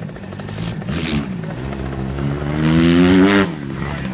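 Dirt bike engine revving, climbing in pitch and loudness to a peak about three seconds in, then cutting off sharply.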